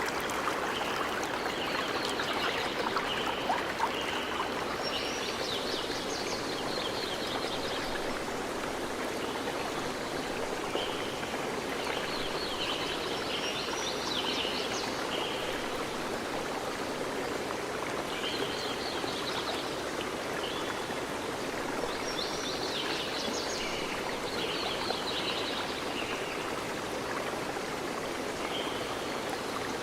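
A stream running steadily, with a songbird singing bursts of quick high notes that come back every several seconds.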